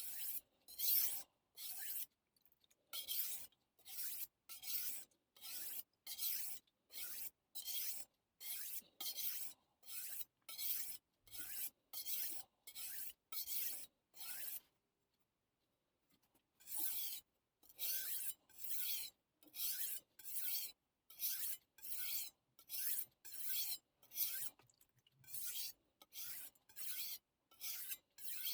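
A steel chef knife blade stroked back and forth on a Missarka combination whetstone, making rhythmic rasping scrapes at about one and a half strokes a second. The strokes pause for about two seconds halfway through, then resume.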